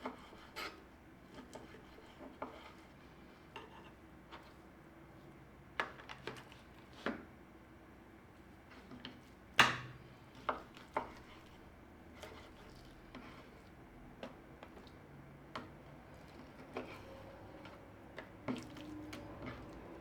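Kitchenware being handled: dishes, bowls and utensils clinking and being set down in scattered light knocks and clicks, with one sharper, louder knock about ten seconds in.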